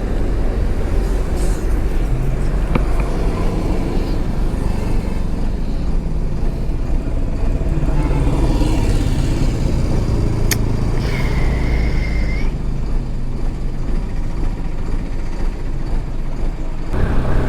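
Motorcycle engine and road traffic with a steady low rumble. There is a sharp click about ten seconds in, and a steady high tone, like a horn, lasts about a second and a half just after it.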